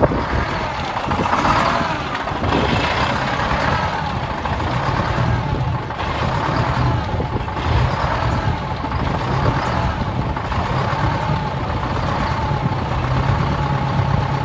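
Vehicle engine running steadily, its low drone wavering slightly in pitch a few times.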